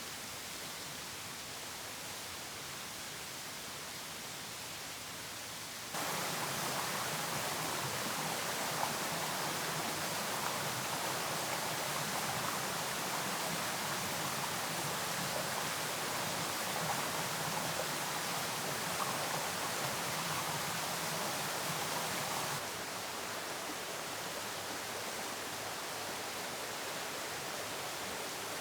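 Steady rushing outdoor noise with no distinct events. It gets louder abruptly about six seconds in and drops back near the end, with a few faint ticks in the louder stretch.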